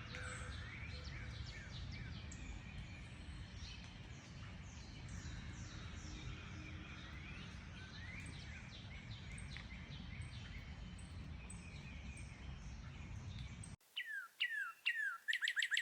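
Many songbirds chirping and singing at once over a steady low rumble. Near the end it cuts suddenly to a quieter background with a single bird giving a few falling whistled notes, then a rapid trill of repeated notes.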